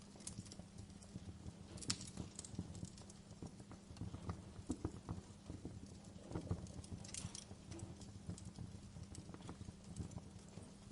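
Wood fire crackling in a fireplace: irregular small pops and snaps, a couple of louder clusters among them, over a low steady hum.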